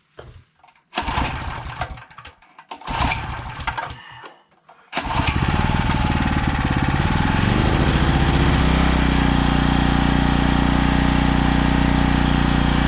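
Small Champion portable generator (1500 W starting, 1200 W running) being pull-started in deep cold: two short rough bursts from the first pulls, then it catches about 5 s in, rises in pitch over a few seconds and settles into steady running.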